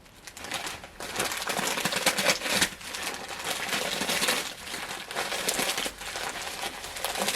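Plastic snack bag of crushed dry ramen noodles crinkling and rustling on and off as it is handled.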